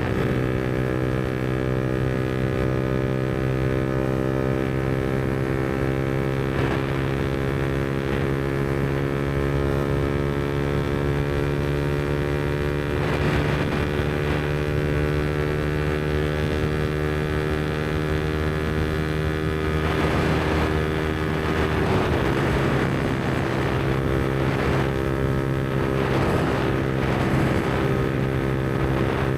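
Yamaha MT-125's 125 cc single-cylinder four-stroke engine running through an aftermarket Black Widow exhaust, holding a steady engine speed with an even note that drops slightly about two thirds of the way through.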